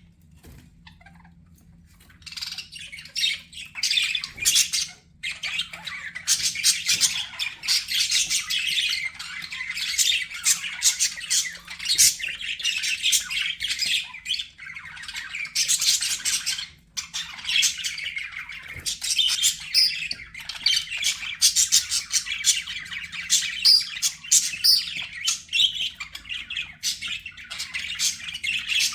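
Budgerigars chattering: a dense, rapid run of chirps and squawks that goes on almost without a break, after a short lull at the very start.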